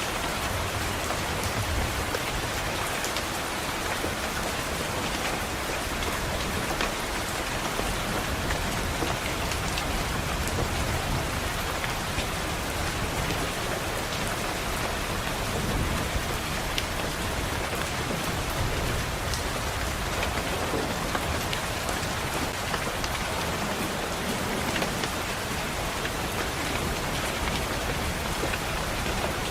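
Steady rain pattering on a window glass, with a low rumble of distant thunder swelling underneath at times.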